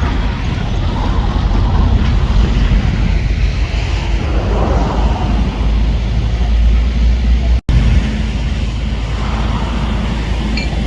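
Diesel fire trucks running at the roadside, a steady low rumble, with wind buffeting the microphone. The sound drops out for an instant about two-thirds of the way through.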